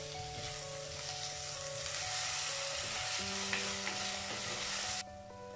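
Soaked moong dal, onion and chillies sizzling in coconut oil in a clay pot while being stirred with a wooden spatula. The sizzle cuts off abruptly about five seconds in, with soft background music of held notes underneath.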